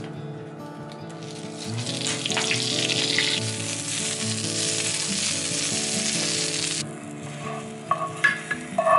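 Spinach and red pepper sizzling in oil in a nonstick frying pan, starting about two seconds in and cutting off abruptly near seven seconds. Soft background music runs underneath, and there are a few clinks near the end.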